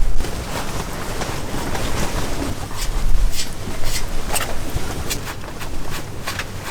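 Strong wind gusting and buffeting the microphone in low rumbles, swelling just after the start and again about three seconds in, with a few short clicks in the second half.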